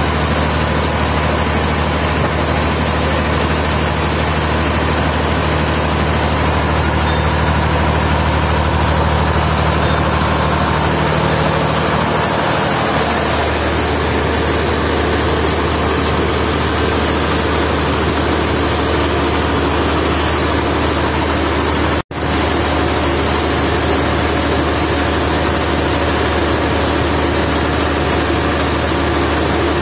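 Sawmill machinery engine running steadily with a low drone. Its note changes about a third of the way through, and the sound cuts out for an instant about two-thirds of the way in.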